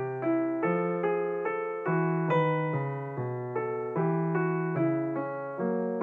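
Background piano music: a gentle melody of single notes over held bass notes, about two or three notes a second, each fading after it is struck.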